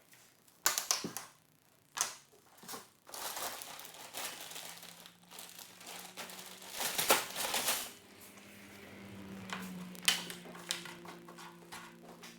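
Loose plastic LEGO pieces rattling and clattering in irregular bursts as they are handled, with some crinkling. A faint low steady hum sits underneath from about three seconds in.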